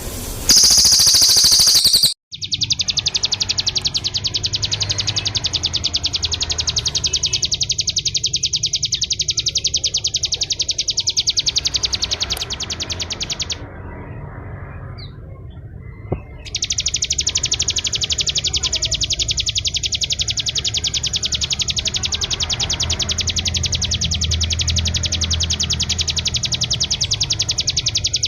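Bar-winged prinia singing a fast, continuous trill of very rapidly repeated high notes, the machine-gun 'ngebren' song. The trill breaks off for about three seconds near the middle, then resumes. It is preceded near the start by a short, louder, high-pitched burst.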